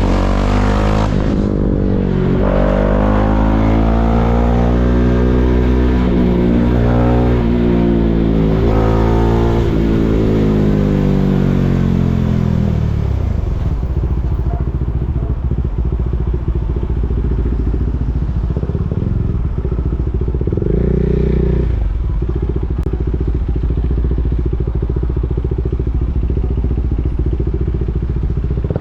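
KTM Duke 390's single-cylinder engine pulling through the gears, its pitch climbing and dropping in several steps for the first dozen seconds. It then settles to a steady idle, with a brief throttle blip about 20 seconds in.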